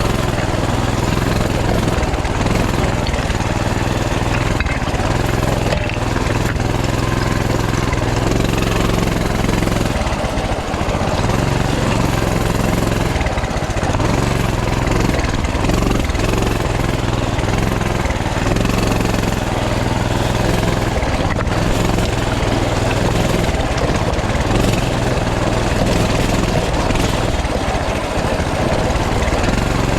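Coleman CT200U mini bike's small single-cylinder four-stroke engine running at a steady, even speed while the bike is ridden over rough, rocky creek-bed ground.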